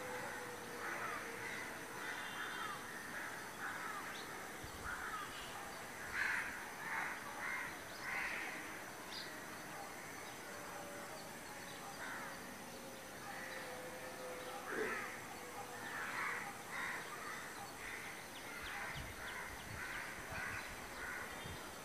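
Short, harsh bird calls repeated irregularly, in loose clusters, over a faint steady hum that slowly drops in pitch.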